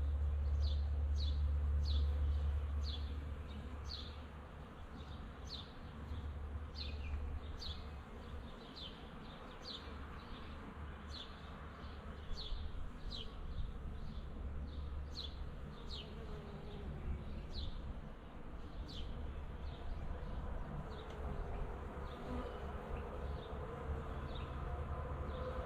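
A honeybee swarm buzzing steadily around a nook box. Over the buzzing, a bird repeats a short, high, downward chirp about twice a second, and the chirping thins out near the end.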